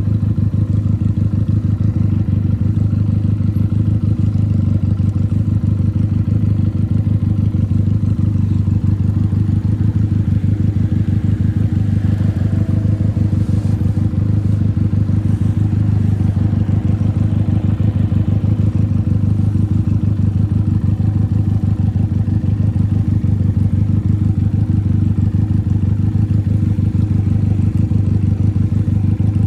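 Benelli 302's parallel-twin engine running through an open, straight-through exhaust, holding a steady low note with a fast, even pulse.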